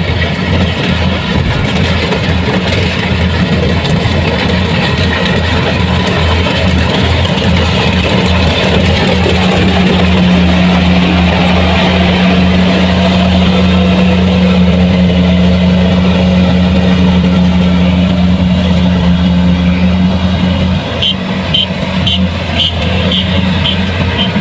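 Kubota rice combine harvester's diesel engine running steadily under load, a loud, even hum with mechanical clatter. Near the end a series of short high beeps sounds over it, about two a second.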